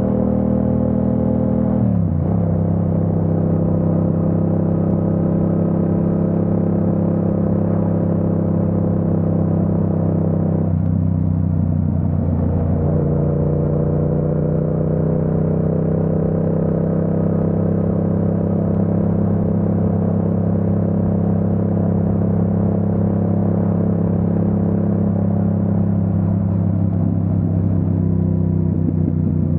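Yamaha MT-07 parallel-twin engine running under way at a steady throttle. Its note drops sharply about two seconds in, breaks up briefly around the middle, then holds steady and slowly rises again.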